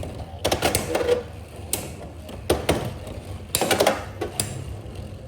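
Hard plastic clicking and clacking of Beyblade X tops and their stadium, in several short irregular clusters of sharp clicks.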